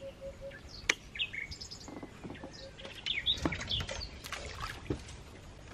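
Birds calling: scattered short high chirps, and a low call of a few short even notes heard twice. A single sharp click about a second in.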